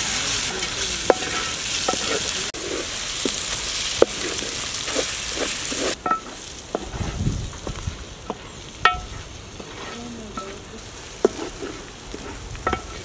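Chopped vegetable momo filling sizzling in hot oil in a metal pan while a wooden spatula stirs and scrapes it, with scattered clicks of the spatula against the pan. About six seconds in the sizzling drops much fainter, leaving occasional scrapes and taps.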